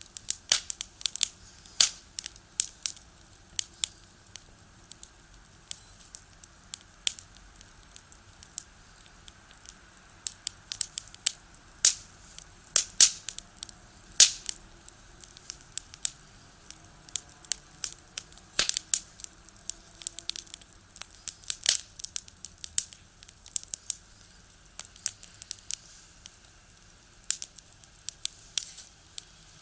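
Firewood burning in a small box stove, crackling and popping in irregular sharp snaps, some much louder than others.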